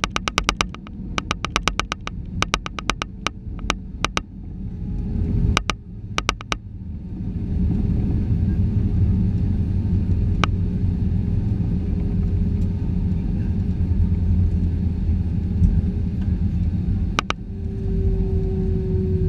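Airbus A320-214 airliner noise heard from inside the cabin: a steady low rumble with a held tone, growing louder about a third of the way in. Over the first several seconds a run of sharp clicks comes in short groups, with one more click near the end.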